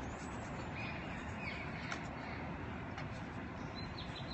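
Small birds chirping in short high calls, scattered through a few seconds and bunching together near the end, over a steady outdoor background hiss.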